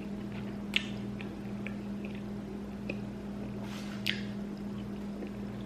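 Eating sounds: a few short wet mouth clicks and smacks of chewing, over a steady low hum.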